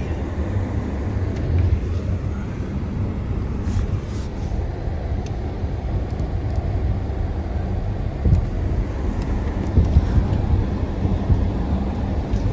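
Farm truck engine running with a steady low rumble, with a few faint clicks about four seconds in.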